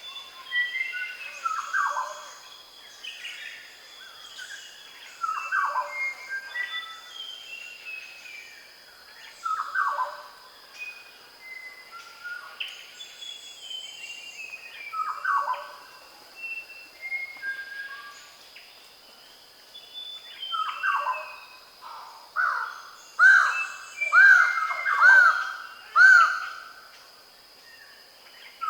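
Dawn chorus in the New Guinea highlands, with birds of paradise among the singers: a loud call that falls in pitch repeats every few seconds over many higher chirps and a steady high tone. Near the end a run of about five loud arched notes comes in quick succession.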